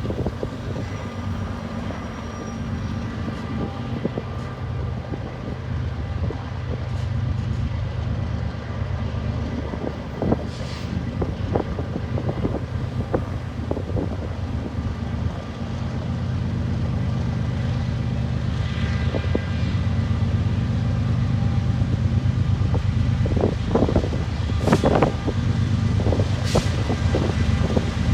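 Long BNSF freight train's diesel locomotives running with a steady low engine drone, growing louder as they approach, with sharp metallic clanks from the train now and then.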